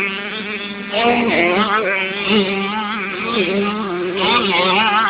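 Motocross bike engines revving, their pitch rising and falling as the throttle is worked.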